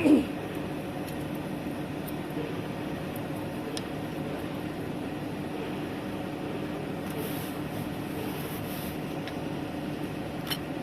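Steady machine hum with a constant tone, and a few faint clicks; a brief sliding sound right at the start.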